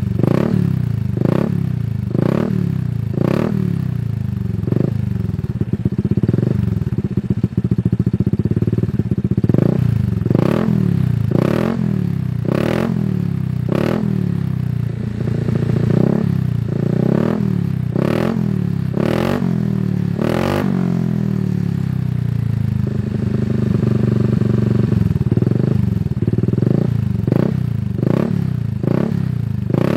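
A machine running with a low drone and a loud clack that repeats about once a second, pausing now and then.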